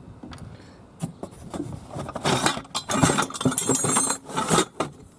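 A shipping box being opened by hand: cardboard and packing material rustling and crackling, with sharp clicks and light metallic clinks. It starts as scattered clicks and becomes a busy rustle about two seconds in.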